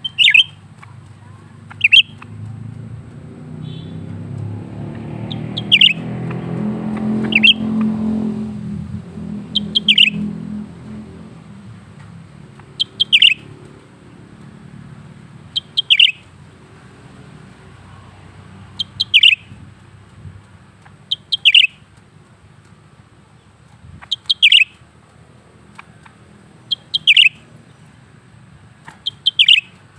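A caged cucak ranting leafbird calls over and over, giving about a dozen short, sharp, falling notes every two to three seconds, often as quick pairs. A vehicle passes in the first third, its low rumble swelling and then fading.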